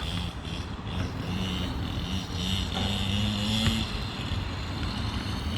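Small 50cc dirt bike engine running steadily, with its pitch rising slightly for a second or so in the middle.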